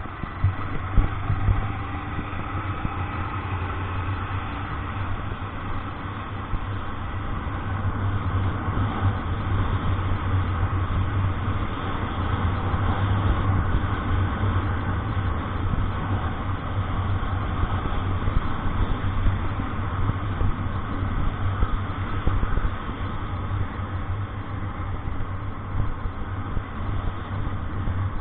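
Motor vehicle engine running steadily with a low hum, under a constant wash of road noise.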